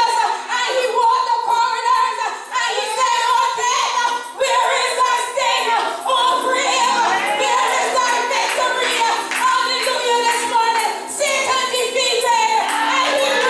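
Voices singing a worship song, a woman's voice prominent. Held low instrument notes join in about halfway through.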